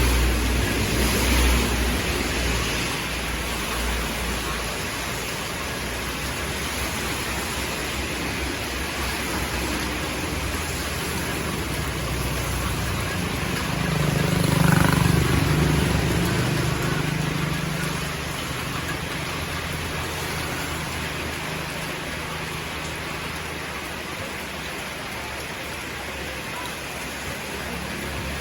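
Steady hiss of heavy rain falling. About halfway through, a low engine hum swells and fades away.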